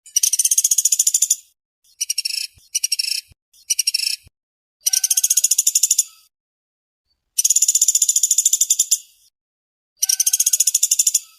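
Woodpecker of the kind Indonesian bird-keepers call pelatuk sampit or pelatuk beras, calling in fast, tight rattling trills (the 'speed rapat' call). There are about seven separate high rattles: three short ones close together in the first half, and longer ones after that.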